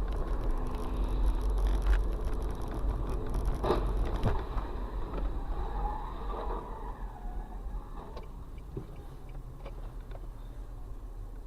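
A car's engine and road noise, a steady low rumble, with a sharp knock a little under four seconds in; the rumble eases off soon after and a fainter run of road noise with a few small clicks follows.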